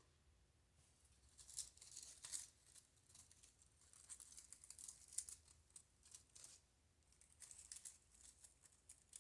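Faint, irregular rustling and crinkling of paper flower embellishments being handled.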